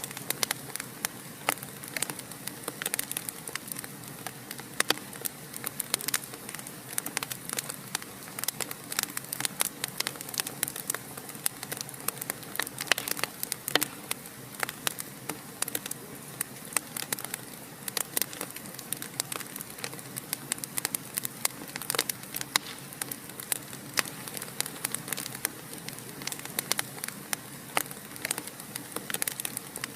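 Fire crackling in a fireplace: many irregular sharp pops and snaps over a steady hiss of burning.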